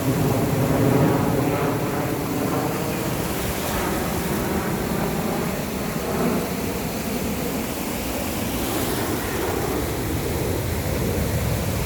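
Steady rumble of an aircraft engine passing over, mixed with a noisy rushing haze.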